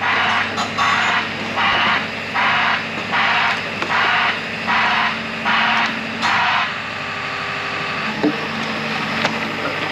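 Heavy excavator's diesel engine running steadily, with a white-noise (broadband) travel alarm pulsing in a regular shh-shh pattern about once every three-quarters of a second, which stops about two-thirds of the way through: the machine is travelling and then halts.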